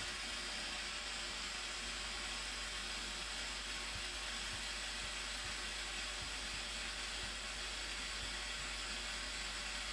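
Steady rushing of falling water from the Blue Nile Falls, an even hiss that does not change.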